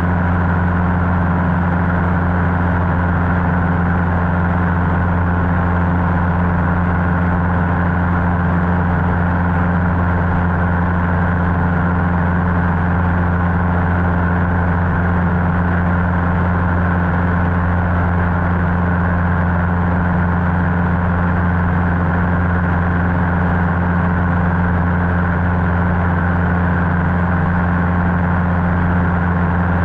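Cessna 150's Continental O-200 four-cylinder engine and propeller droning at a steady cruise power, with no change in pitch or level.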